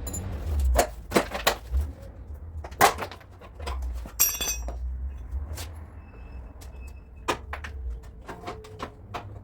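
Irregular knocks and clinks of tools on metal, with one ringing metal strike about four seconds in, over a low rumble.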